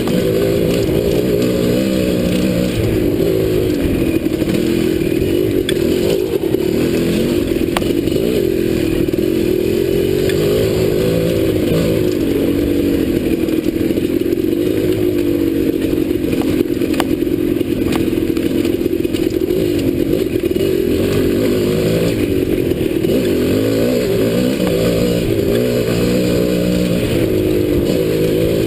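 Dirt bike engine running under way, its pitch rising and falling as the throttle is worked, with a few sharp clicks.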